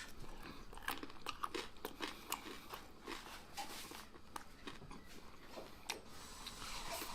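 Close-up crunching as a person chews air-fried pork belly, its skin crisped in the air fryer: many irregular sharp crackles.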